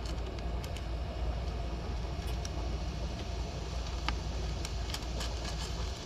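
Steady low background rumble with a few light clicks and taps as a small jewelry clasp and tools are handled on a workbench.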